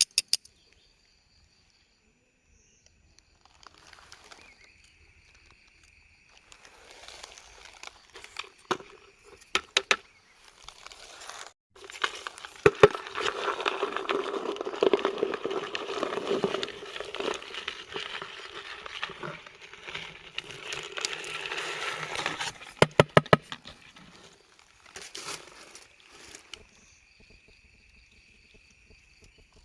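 Rustling and crinkling handling noise, densest and loudest through the middle, with scattered sharp clicks and taps. A faint steady high tone sounds for several seconds early on and again near the end.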